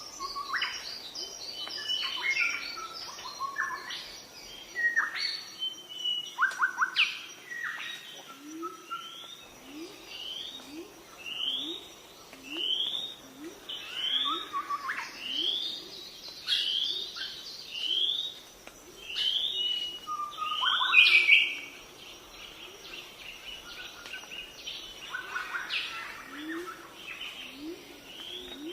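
Several birds chirping and calling in a busy mix. Through the middle a short rising whistle repeats about once a second.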